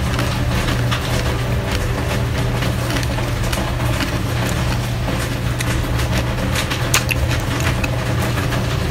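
Steady heavy rain under a low constant hum, with scattered crunches of crispy fried water spinach being chewed; the sharpest crunch comes about seven seconds in.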